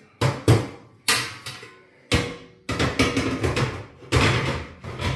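Kitchen clatter: a run of knocks, bangs and clanks as cookware and kitchen doors are handled, with several sharp hits in the first two seconds and longer clattering stretches later on.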